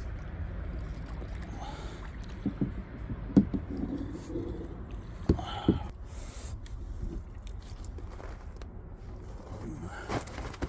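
Knocking and handling noise in a small boat: a steady low rumble with several short, sharp knocks.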